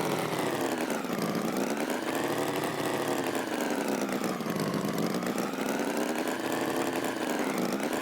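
Tractor engine running steadily, its pitch sinking and rising again in slow waves every few seconds.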